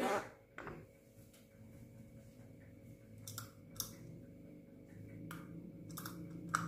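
Young Javan myna (jalak kebo): a short harsh call at the start, then about five sharp clicks scattered over the following seconds, over a faint steady hum.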